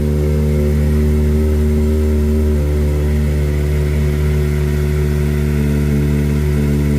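Kawasaki ZX-4RR's 399 cc inline-four idling steadily after a cold start, while still warming up.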